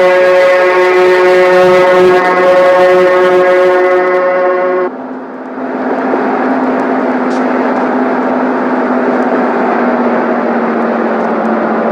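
Horn of a 6700-series electric locomotive blowing one long blast, heard from inside a passenger coach, cutting off suddenly about five seconds in. After that, the coach's steady running noise with a low hum.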